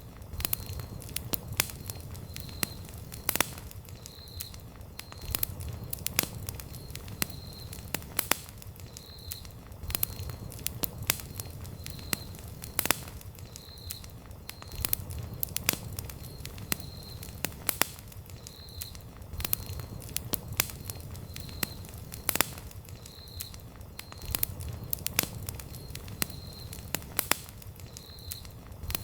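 Wood campfire crackling: frequent sharp pops and snaps over a low rumble of burning flames. A faint high-pitched chirp repeats about every second and a half.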